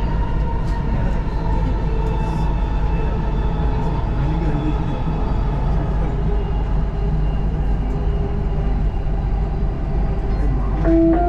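Dubai Metro train running at speed, a steady rumble of wheels and traction motors heard from inside the carriage. Near the end, a short stepped chime begins, the signal that an onboard announcement is about to follow.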